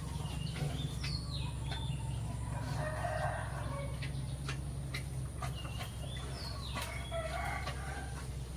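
Rooster crowing twice, about five seconds apart. Scattered sharp clicks and a steady low hum run underneath.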